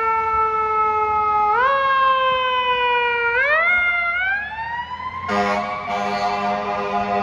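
Fire engine siren wailing, its pitch stepping up twice and sagging between, then winding up in a long rise. About five seconds in, the truck's air horns blast over it and keep sounding to the end.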